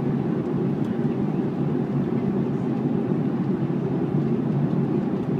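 Steady low roar of a jet airliner's engines, even and unchanging, with no distinct tones or knocks.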